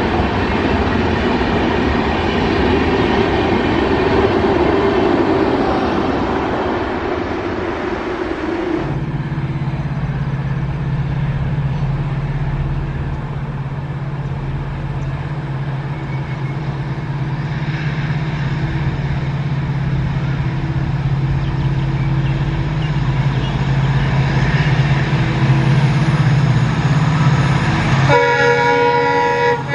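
An express train rushes past at speed with a loud rolling rumble of wheels and coaches, which cuts off suddenly about nine seconds in. A steady low drone from the next train follows. Near the end a train horn sounds for about a second and a half.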